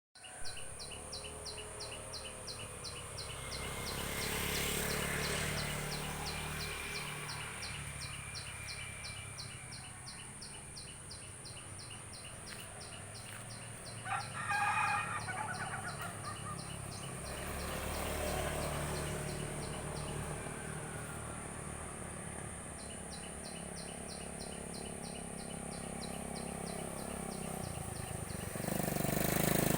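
A wild ciblek gunung singing a long run of short, evenly repeated high notes, about four a second, pausing briefly about two-thirds of the way through. A rooster crows once around the middle. A steady high hiss and a low rumble run underneath.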